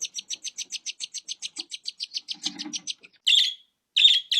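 A small bird chirping in a fast, even series, about nine chirps a second. About three seconds in this gives way to louder single calls spaced under a second apart.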